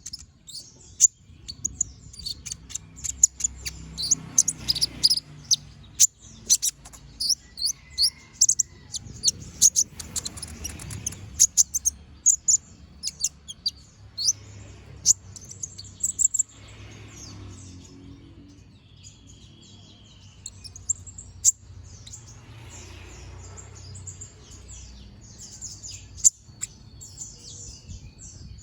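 Kolibri ninja (a sunbird, known as konin) singing non-stop: a rapid stream of sharp, high-pitched chirps and trills, densest in the first half and running on as quicker trills later.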